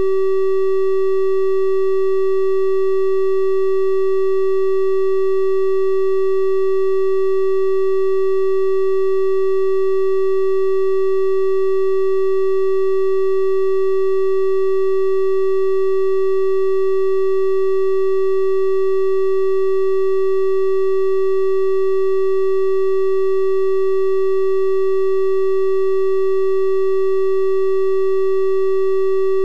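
Synthesized 384 Hz triangle-wave test tone, a steady unbroken hum with faint higher overtones, held at one pitch and level throughout.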